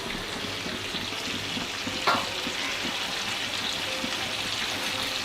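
A wet blended onion, ginger, garlic and tomato paste sizzles steadily in butter in a pan with pieces of chicken. There is one sharp knock about two seconds in.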